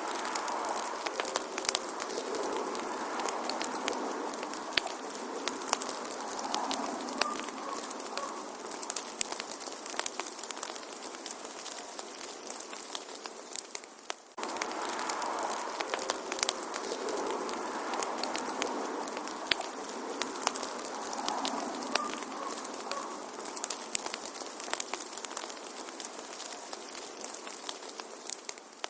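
Wood fire crackling in a fireplace: frequent sharp pops and snaps over a steady hiss of flame, with a brief drop in level about halfway through.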